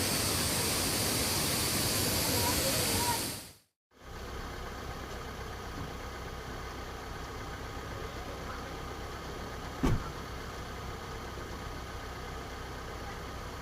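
Loud steady rushing noise that cuts off abruptly a few seconds in, followed by a quieter steady low hum with one brief knock partway through.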